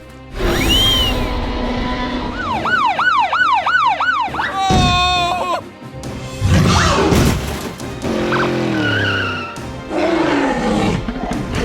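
Cartoon sound effects over background music: a fast wailing siren sound about two and a half seconds in, then a brief horn-like blare, followed by growling roars and a falling tone.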